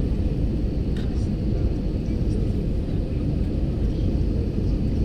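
Steady low rumble of an aeroplane's engines and rushing air, heard from inside the passenger cabin.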